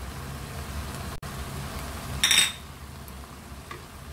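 Minced chicken sizzling gently in a wok of oil and released juices over a steady low hum. About two seconds in there is a short, loud clatter of a utensil against the pan.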